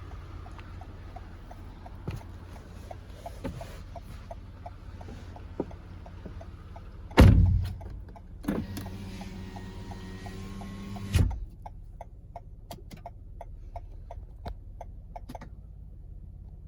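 A car door slams shut. About a second later a power window motor starts with a short rising whine, hums steadily for almost three seconds and stops with a thump as the glass seats. Light, evenly spaced clicking runs underneath.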